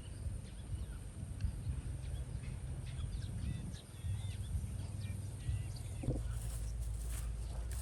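Outdoor ambience: short, scattered bird chirps over a low, steady rumble, with a few light knocks.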